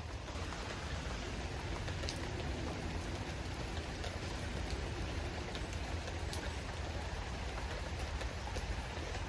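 Steady rainfall, with scattered drop ticks and a low rumble underneath.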